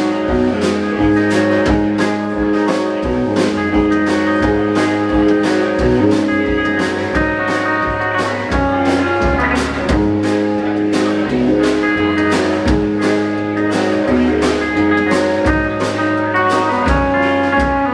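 Live blues band playing: guitar over a steady drum-kit beat.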